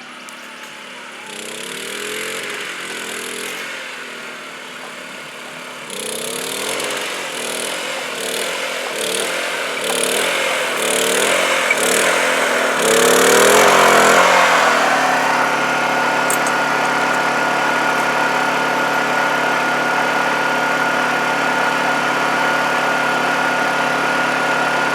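An engine revving up and down repeatedly, its pitch rising and falling for about fifteen seconds. It then settles into a steady, constant-speed run.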